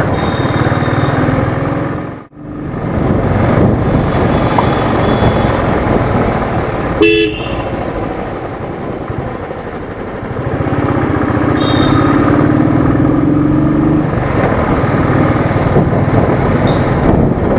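Royal Enfield Thunderbird single-cylinder motorcycle riding in traffic, its engine and road noise running steadily, with a sudden brief drop-out just over two seconds in. A short horn toot sounds about seven seconds in. A droning tone rises slowly in pitch from about eleven to fourteen seconds.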